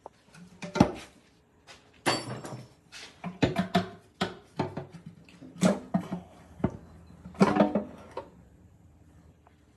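A series of irregular knocks and clatters, as of hard objects being handled and set down, with the loudest about a second in, at two seconds, and near six and seven and a half seconds; it fades out near the end.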